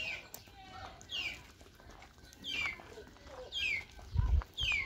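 A bird calling over and over: a short high whistle that slides down in pitch, about once a second, five times. A low rumble comes in near the end.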